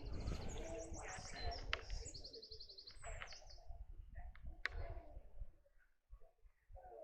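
Songbird singing a rapid high trilled phrase in the first few seconds, followed by a few short sharp chirps, over a low outdoor rumble.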